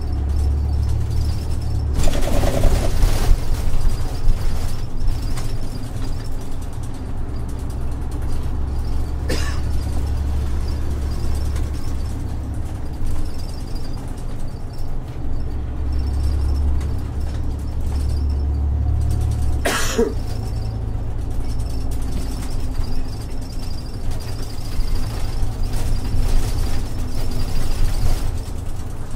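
Isuzu 6HK1-TCC diesel engine of a city bus idling steadily at a stop, with three short hisses of compressed air from the air brake system, the first about two seconds in, the others about nine and twenty seconds in.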